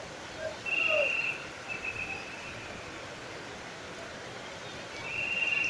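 Heavy monsoon rain falling steadily on a busy street, a continuous hiss. Over it come a few short, high, buzzy tones, about a second in, near two seconds and again near the end.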